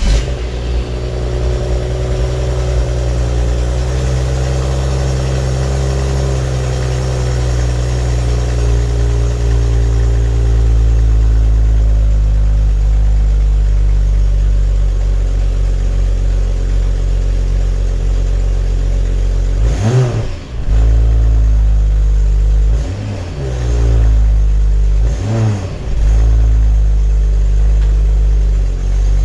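BMW 535i F10's inline-six idling just after starting, its raised idle slowly settling lower. Three short throttle blips near the end.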